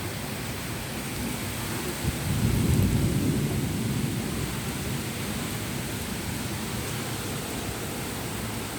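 Steady rain with a low rumble of thunder that swells about two seconds in and dies away over the next few seconds.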